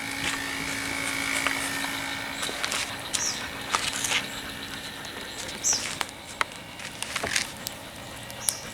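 Quiet outdoor ambience: a faint steady hum that fades over the first half, scattered light clicks, and a few short high chirps.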